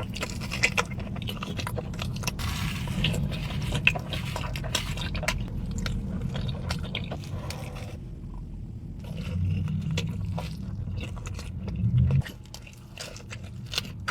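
Biting into and chewing Domino's pizza close to the microphone, with many short crisp crunches and clicks.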